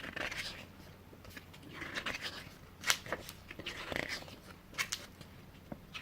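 Faint rustling and light ticks of a paper product catalog being handled and its pages turned.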